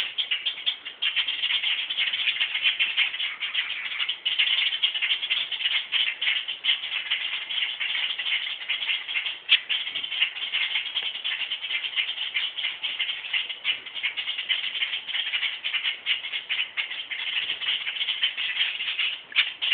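Birds giving rapid, rasping alarm chatter without a break: adult birds scolding a person near their grounded fledgling.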